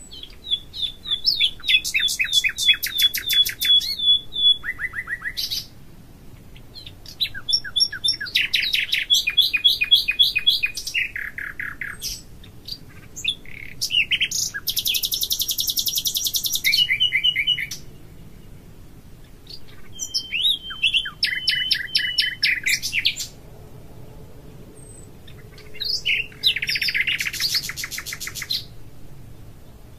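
A songbird singing: about five varied phrases of fast trills and quickly repeated notes, each lasting a few seconds, with short pauses between.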